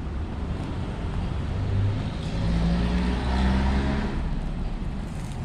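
Motor vehicle driving past, its engine note rising in pitch and swelling to a peak about three and a half seconds in, then fading.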